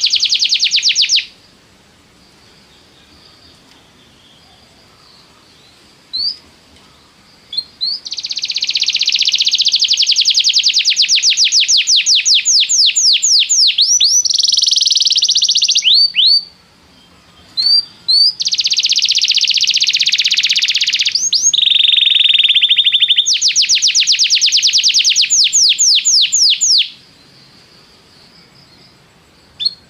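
Domestic canary singing: long phrases of fast, rapidly repeated trilled notes, each phrase running several seconds. Between the phrases come gaps of a few seconds with only a couple of short single chirps.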